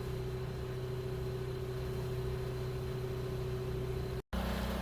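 Steady low mechanical hum of a running motor, with a faint steady tone over it. It drops out abruptly for a split second about four seconds in and comes back as a slightly different hum.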